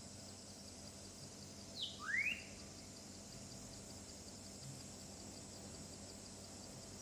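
A bird gives a single short call about two seconds in: a brief falling note, then a quick upward sweep. A faint, steady, high-pitched outdoor hiss runs underneath.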